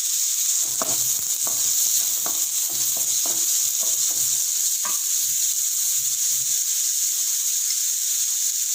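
Chopped onions and green chillies sizzling in hot oil in a kadai, with a spatula stirring them in a run of short strokes over the first five seconds.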